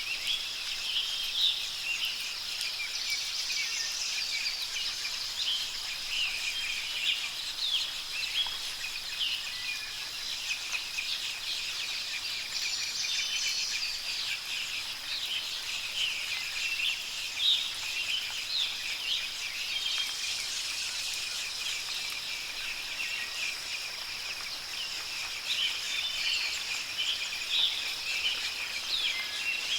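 Songbirds chirping, many short calls overlapping throughout, over a steady high-pitched drone.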